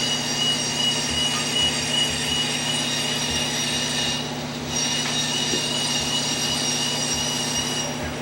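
A running machine giving a steady high-pitched whine over a low hum; the whine fades out briefly about four seconds in, then returns.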